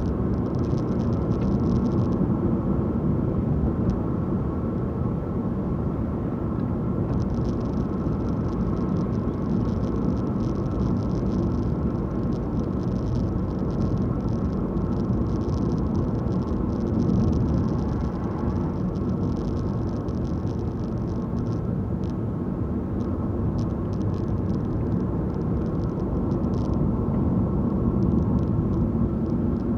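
Steady engine and tyre-on-road noise of a car being driven, heard from inside the cabin.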